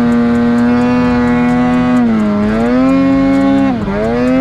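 A loud, sustained horn blast: one steady pitched tone that sags in pitch twice, about two seconds in and again near the end.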